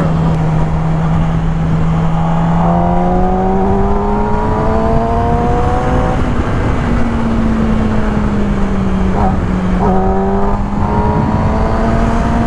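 Motorcycle engine running at a steady road speed under heavy wind noise. Twice, about two and a half seconds in and again near the tenth second, another engine note rises as a bike accelerates.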